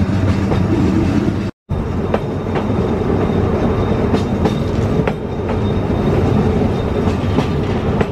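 Oigawa Railway Ikawa Line train running, a steady rumble with the wheels clacking over rail joints several times. The sound cuts out for a moment about a second and a half in.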